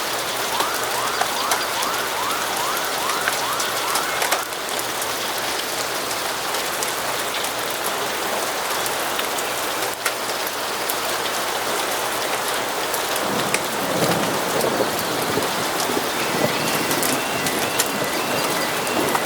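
Steady rainfall with scattered fine drip clicks. A quick run of short rising chirps comes early on, a low rumble about two-thirds of the way through, and a short series of evenly spaced chirps near the end.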